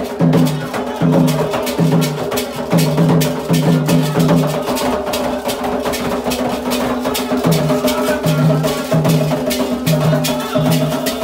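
Candomblé ritual percussion: atabaque hand drums struck in a quick, steady rhythm with lighter struck percussion on top.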